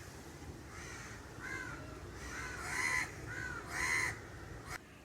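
A crow cawing repeatedly, about six short caws, the last two the loudest.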